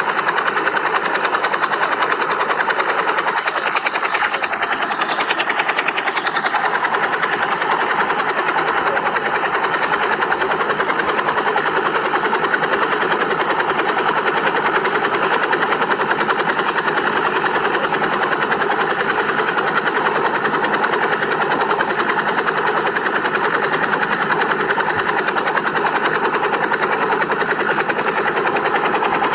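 Steady, fast whirr of a small helicopter's rotor and motor running without a break.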